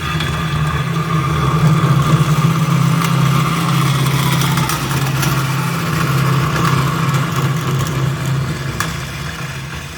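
Electric metal-cutting saw running steadily while cutting a piece of steel exhaust tube. It eases off near the end as the cut finishes.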